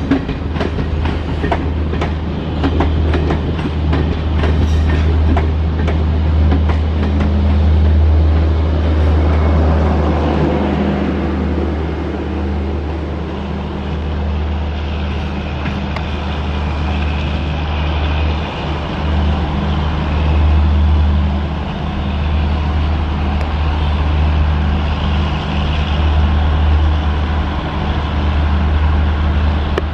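Garib Rath express coaches rolling past close by, their wheels clacking rapidly over the rail joints. After about six seconds the clacking stops, and the steady rumble of the train going away down the line carries on.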